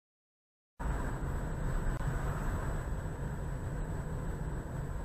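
Car driving, as heard by a dashcam inside the vehicle: steady engine and road rumble that cuts in abruptly a little under a second in, with a faint steady high whine over it.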